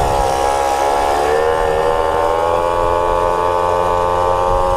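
Small two-stroke moped engine running at steady high revs under throttle, its pitch holding even, with a low rumble underneath.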